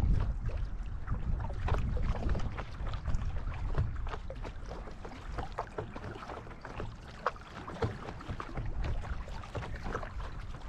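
Paddle strokes in river water: irregular splashes and drips, with wind rumbling on the microphone.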